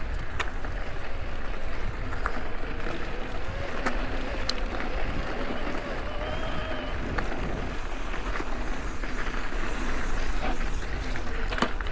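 Mountain bike ridden along a dirt trail: steady wind rumble on the microphone with tyres rolling over dirt and rocks, and scattered sharp clicks and rattles from the bike.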